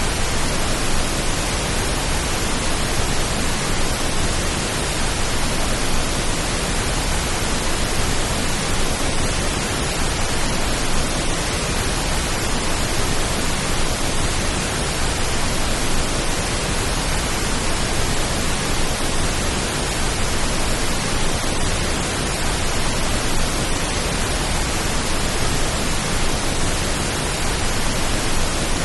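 Steady pink noise: an even, unchanging hiss with no pitch, rhythm or separate events.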